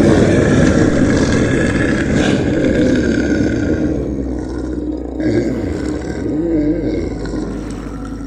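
Dinosaur roar sound effect for an animated sauropod: a long, low, rough roar that fades over the last few seconds.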